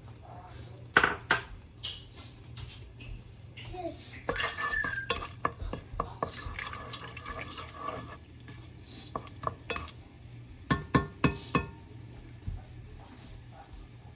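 Metal kitchen utensils clinking and knocking against a cooking pan as whole spices are handled, with four quick ringing taps about eleven seconds in, over a low steady hum.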